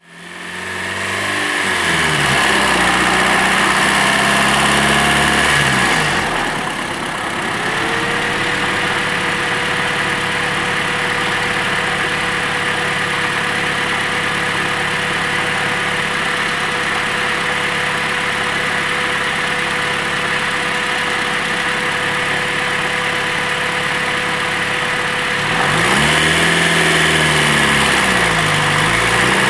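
Turbocharged Honda Integra LS-VTEC engine with an STC Interceptor turbo, heard from a mic in the engine bay, idling. A steady whine sits over the idle from about eight seconds in, and the engine is revved up and down a few times near the end.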